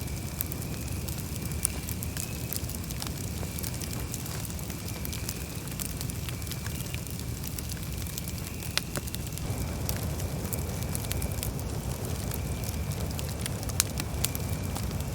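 Campfire burning: a steady low rumble of flames with frequent sharp crackles and pops from the burning wood, coming more often near the end. A faint high tone comes and goes behind it.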